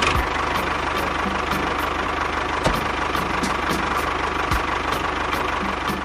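Small motor of a DIY mini tractor or harvester running steadily, with a fast, even low pulsing.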